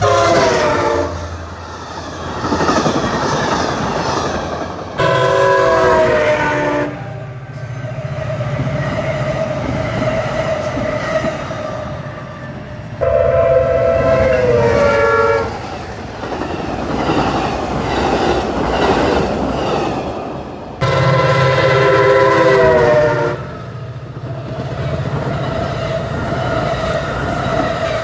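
Passenger trains passing a grade crossing: a diesel locomotive horn sounds three long chord blasts of about two seconds each, the middle one sliding down in pitch at its end. Under the blasts is the continuous rumble and clatter of wheels on the rails, with a steady whine between blasts.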